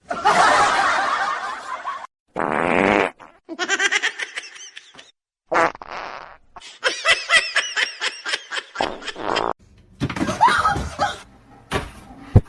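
A string of short sound snippets separated by brief silences: a noisy rasp at the start, then people laughing in several bursts.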